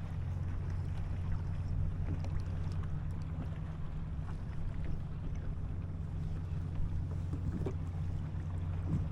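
Steady low rumble of wind on the microphone out on the water in a kayak, with faint scattered ticks and small splashes.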